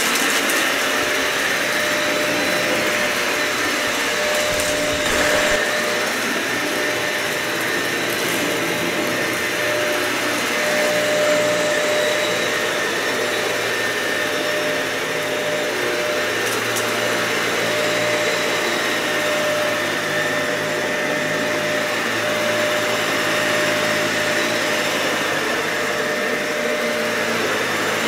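Dyson vacuum cleaner running steadily on a dirty, matted carpet, its motor holding a steady whine, with a few brief clicks along the way.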